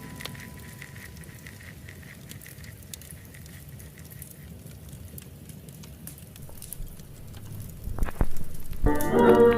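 Fireplace crackling: a soft, even patter of small pops and crackles, with a couple of sharper snaps about eight seconds in. Near the end, instrumental music starts.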